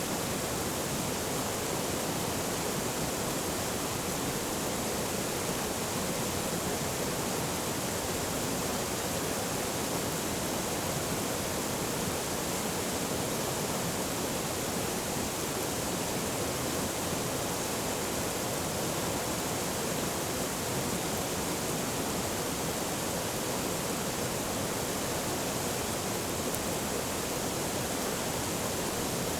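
Forest stream flowing, a steady even rush of running water.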